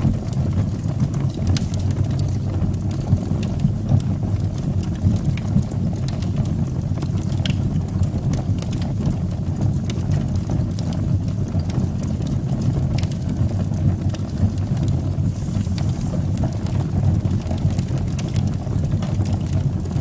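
Fire burning in a fireplace: a steady low rush from the flames with scattered crackles and pops.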